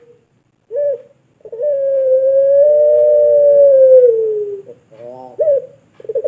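Puter pelung dove (domestic Barbary dove) cooing. A short note comes about a second in, then one long drawn-out coo of about three seconds that sinks in pitch at its end. A few short notes follow, and a new long coo starts near the end.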